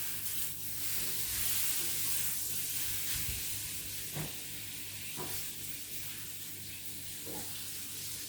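Coated chicken breast fillets frying in hot peanut oil in a pan: a steady sizzle, with a few faint pops.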